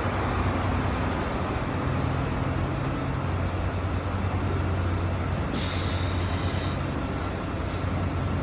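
Bus diesel engine running with a steady low drone. A hiss of compressed air, about a second long, comes about five and a half seconds in, with a fainter, shorter one near the end.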